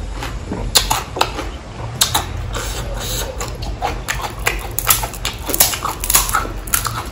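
Close-miked chewing of crisp pani puri shells, the fried puris crunching in irregular sharp crackles, a few a second.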